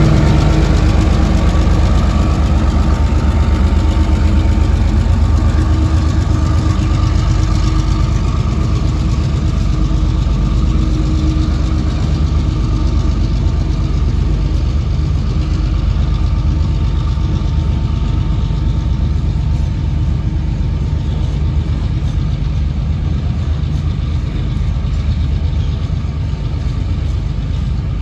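TasRail 2010 diesel locomotive's engine running as it passes and draws away, its tones fading over the first dozen seconds. After that comes a steady rumble of cement hopper wagons rolling along the rails, slowly getting quieter.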